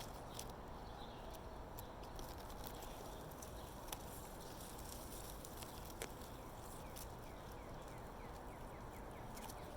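A day-old baby bird gives a faint run of quick, high cheeps near the end, over a steady hiss with scattered light clicks.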